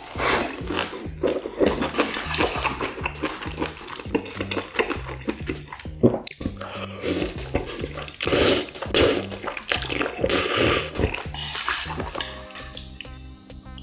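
Wet chewing and smacking of a big mouthful of spicy stir-fried small octopus and beef large intestine, then thick noodles, over background music with a steady low beat. The chewing eases near the end.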